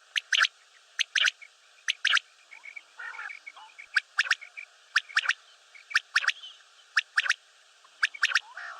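Common quail calling its quick three-note 'wet-my-lips' song, repeated about once a second. Softer raspy notes come in between the phrases.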